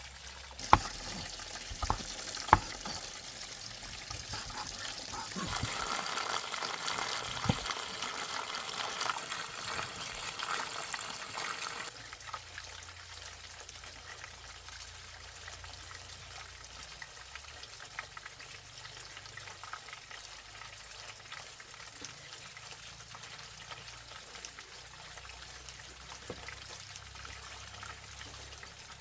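Running water, with a few sharp knocks in the first few seconds. It gets louder from about five seconds in and drops back to a steady, quieter trickle at about twelve seconds.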